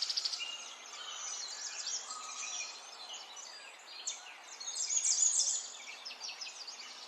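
Several small songbirds chirping and singing at once, a dense chorus of quick, high overlapping calls that swells for a moment about halfway through.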